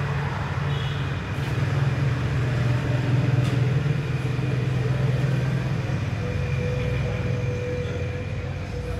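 A 2014 Toyota Corolla GLi's engine idling with the bonnet open: a steady low hum that does not change.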